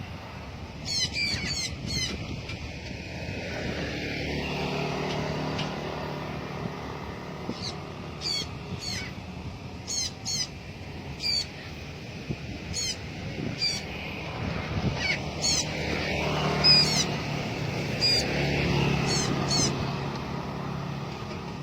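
Müller's (blue-backed) parrot giving short, harsh squawking calls in repeated clusters. A low steady hum swells twice underneath.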